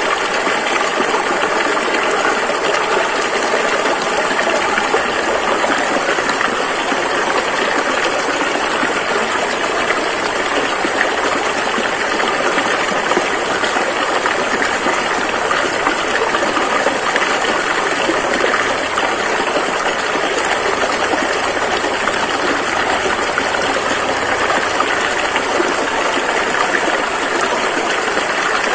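Rushing river: a steady, loud rush of fast-flowing water.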